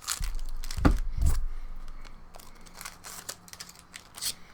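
A trading-card booster pack's wrapper being torn open and crinkled, with two heavier knocks about a second in, then scattered crackling and clicks as the pack and cards are handled.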